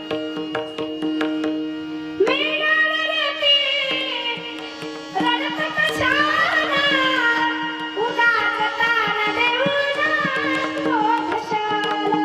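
Devotional kirtan music: a steady held drone with tabla strokes, then a long sung melody with sliding, ornamented pitch from about two seconds in, over the drone and drum.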